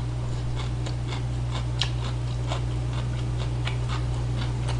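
Close-up chewing of a mouthful of ramen noodles: many small wet mouth clicks, over a steady low hum.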